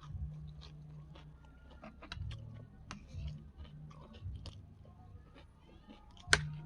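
A person chewing food close to the microphone, with many short wet mouth clicks and smacks. There is one sharp knock near the end, the loudest sound.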